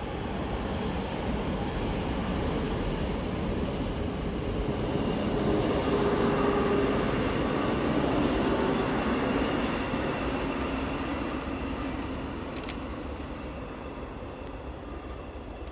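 Passenger train passing by: a rushing rail noise with a faint tonal hum that swells to its loudest about six to eight seconds in, then fades as the train moves away.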